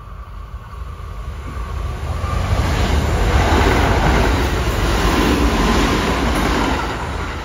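Kintetsu Osaka Line train passing through the station at speed, its noise swelling to a peak in the middle and fading toward the end.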